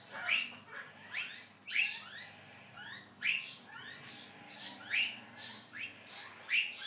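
Birds chirping over and over: short calls that sweep down in pitch, about one a second.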